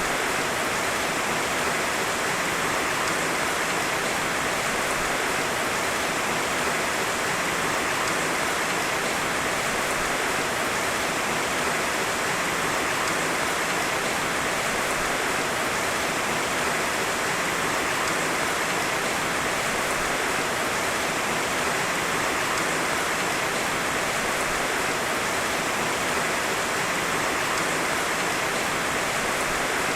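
Heavy rain falling steadily, a dense even hiss with no thunder and no separate drops standing out.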